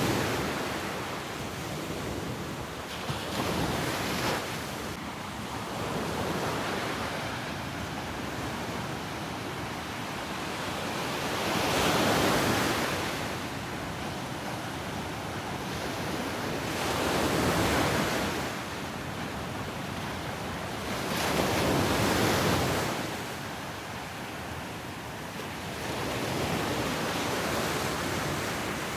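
Ocean waves breaking on a beach: a constant wash of surf that swells into a louder crash every few seconds, the biggest about twelve, seventeen and twenty-two seconds in.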